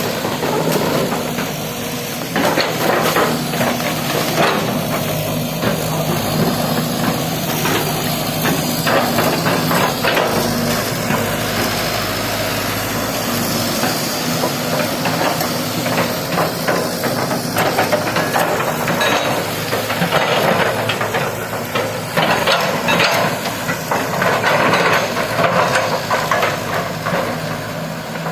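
Excavator at work: its diesel engine runs steadily while many irregular knocks and clatters come and go over it.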